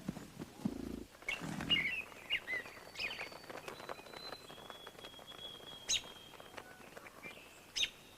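Wild birds calling: scattered chirps and short whistled notes, with a few longer held whistles through the middle. Two low sounds in the first two seconds and two sharp clicks near the end.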